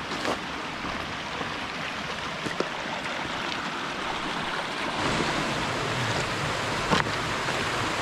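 Rushing water of a mountain stream pouring down a small waterfall, a steady wash that grows louder about five seconds in. A few short knocks stand out, the loudest near the end.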